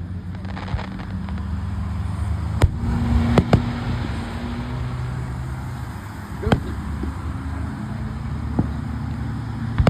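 Scattered firework bangs, sharp single reports a second or more apart, two of them close together about three and a half seconds in, over the steady hum of a motor vehicle's engine.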